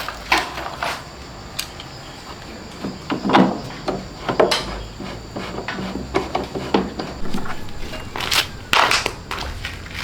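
Irregular knocks and clicks of hard objects being handled, with louder ones about three and a half seconds in and again near the end.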